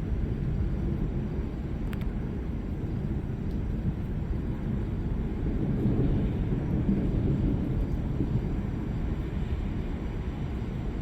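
Low rolling thunder rumble that swells about six seconds in and then eases.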